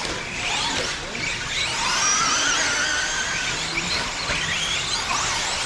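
Several electric 4wd short course RC trucks' motors whining at once, their high pitch rising and falling as they accelerate and brake around the track, over the hiss of tyres on dirt.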